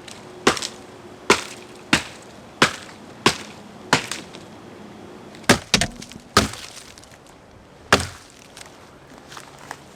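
Dry dead branches being broken up for firewood: a string of sharp, splintering wood cracks, about one every two-thirds of a second for the first four seconds, then a few more, spaced irregularly.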